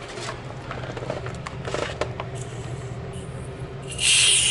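Faint clicks and knocks over a low hum, then a loud steady hiss starts suddenly about four seconds in.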